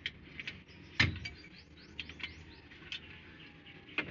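Light metallic clinks of hand tools on metal, with one heavier clunk about a second in; several short bird chirps are heard in the background.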